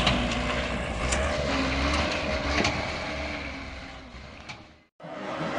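A motor vehicle running with a low rumble and a few sharp knocks, fading away, then cutting out abruptly for a moment before another vehicle sound starts.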